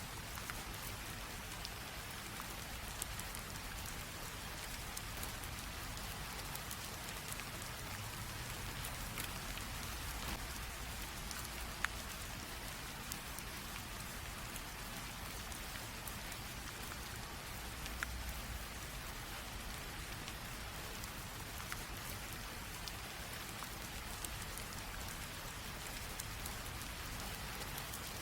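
Light rain drizzle falling steadily, an even hiss with scattered ticks of single drops, one sharper tick about twelve seconds in.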